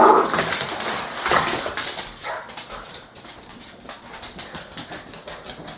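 Pet dog making sounds, with a brief pitched call at the start, then quicker, noisier sounds that grow quieter.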